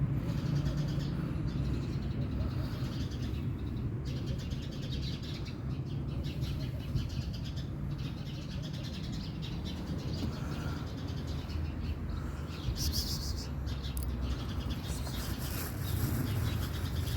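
Small birds chirping on and off, clearest near the end, over a steady low background rumble.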